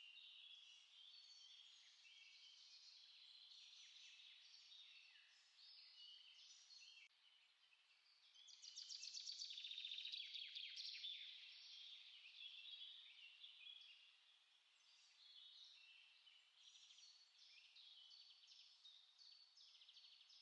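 Several small songbirds chirping and singing in overlapping short notes. A louder rapid trill comes in about eight seconds in and lasts about three seconds.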